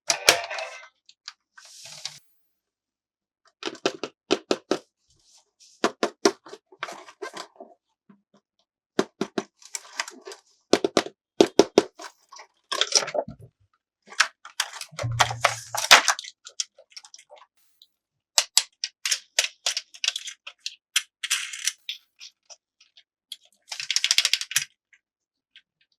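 Hard plastic toy pieces being handled and knocked together: sharp clicks and clacks in quick clusters with silent gaps between them, a dull thump about halfway through and a scratchy rustle near the end.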